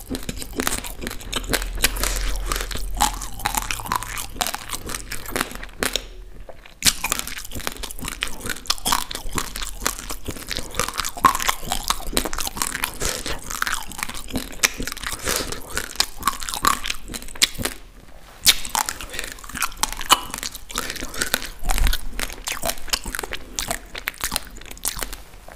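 Close-miked chewing of raw, uncooked basmati rice: a dense, continuous crunching of the hard dry grains, pausing briefly twice.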